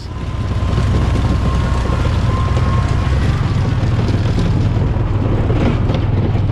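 A vehicle engine running steadily with a low hum and a constant rushing noise, as while driving along.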